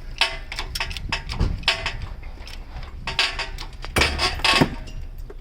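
Metal clanking and clinking as the engine, hung from a shop engine hoist, is worked free of the engine bay: a run of sharp metallic knocks with some ringing, the heaviest ones about four seconds in.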